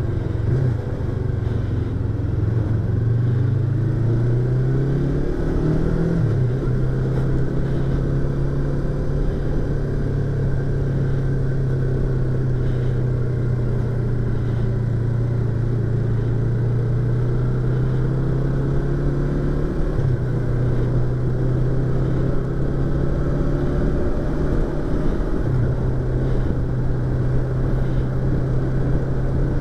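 Yamaha YZF-R25's 249 cc parallel-twin engine and exhaust under way, heard from inside the rider's helmet over wind noise. The engine note rises over the first few seconds, drops about six seconds in as a gear change, then holds steady at cruising speed with brief dips near twenty and twenty-five seconds.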